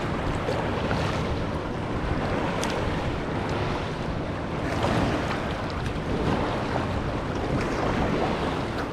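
Sea waves washing in the shallows with wind buffeting the microphone: a steady rushing that swells a little about five seconds in and again near the end.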